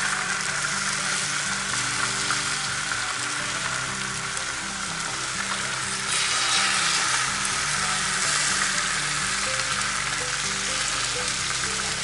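Beaten eggs sizzling steadily as they are poured onto a hot Lodge Blacklock cast iron griddle, with sausage and mushrooms frying alongside.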